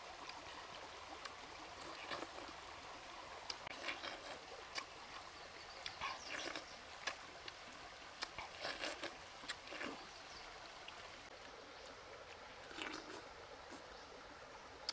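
A person chewing and slurping juicy pineapple, short wet mouth sounds every second or so, over the faint steady trickle of a shallow stream.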